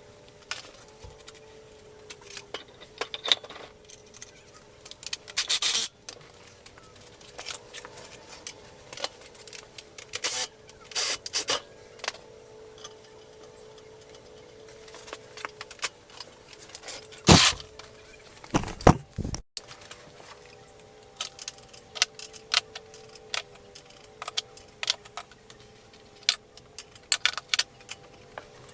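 Metal hand tools and parts clinking, clanking and scraping in irregular bursts, with the loudest knocks about six, eleven and seventeen to nineteen seconds in. A faint steady hum runs underneath.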